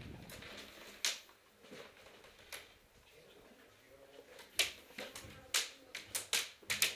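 Airsoft guns firing indoors: single sharp snapping shots every second or two, then a faster run of about six shots in the last two seconds.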